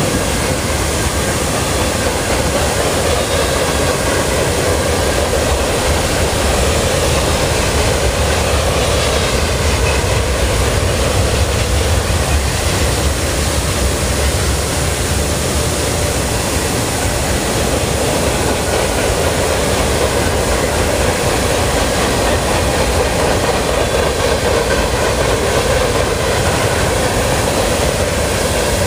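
Cars of a mixed freight train (flatcars and gondolas) rolling past: a steady, loud noise of steel wheels running on the rails.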